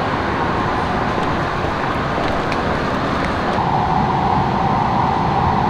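Steady road traffic noise, with a steady higher hum joining about three and a half seconds in.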